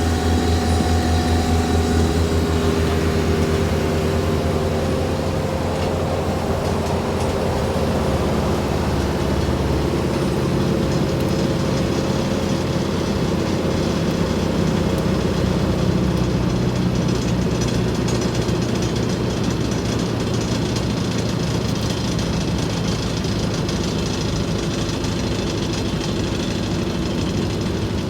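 ASV RT-120F compact track loader's diesel engine running steadily under throttle, its note shifting somewhat about halfway through.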